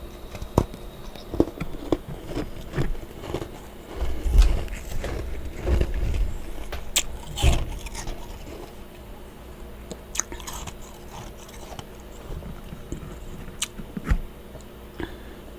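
Close-up crunching and chewing of powdery freezer frost in the mouth, irregular sharp crunches that come thickest and loudest in the middle, over a low steady background hum.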